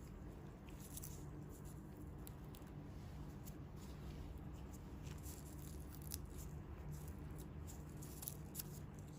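Faint, scattered small crackles and rustles of hands working on the feet' skin, over a steady low hum.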